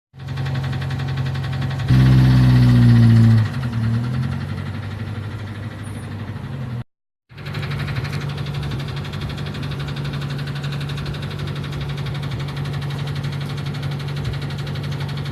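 Ford engine running with a heavy rod knock, a loud rhythmic knocking from a failed connecting-rod bearing. About two seconds in it is revved and held for a second and a half, then drops back to idle; it cuts out briefly midway and then runs on steadily.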